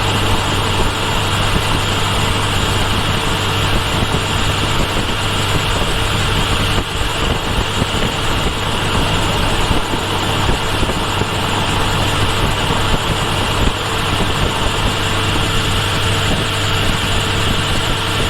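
Kawasaki Ninja H2 SX's supercharged four-cylinder engine running at a steady pitch, with a steady rush of wind and road noise over it.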